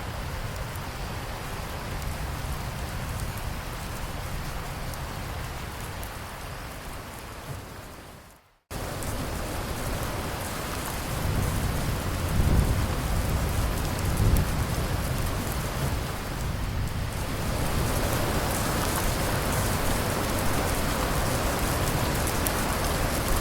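Steady rain falling, fading out to a brief silence about eight seconds in and then cutting back in abruptly. A low rumble of thunder follows a few seconds later, and the rain gets heavier and brighter toward the end.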